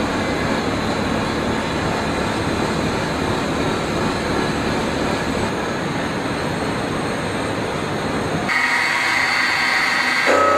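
CNC mill-turn machine running: a dense, rough machining noise that switches abruptly, about eight and a half seconds in, to steady high whining tones.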